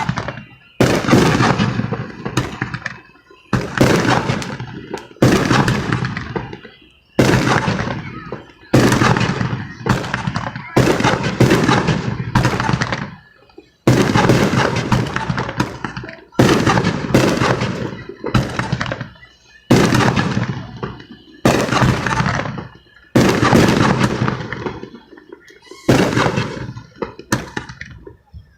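Fireworks going off in quick succession: a loud bang about every one to two seconds, each one dying away before the next, some twenty in all.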